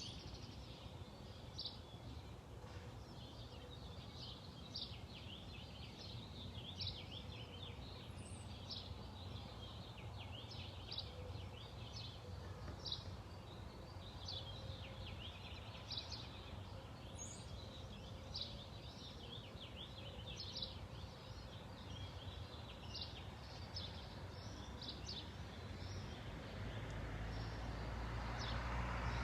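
Outdoor birdsong: many short chirps and trills from songbirds, repeated throughout. A low rumble builds in the last few seconds.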